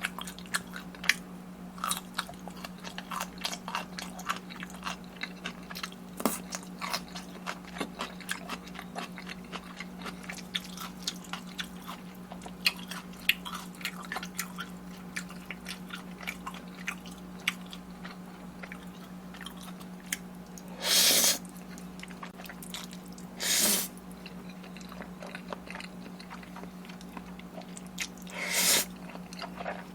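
Close-miked eating: steady chewing with many small wet clicks and crunches. Three longer, louder rushing sounds come about two-thirds of the way through and near the end, over a steady low hum.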